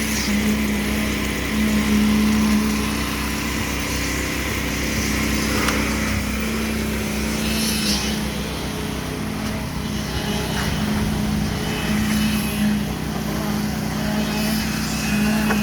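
Concrete pump's engine running steadily at a constant speed during pumping.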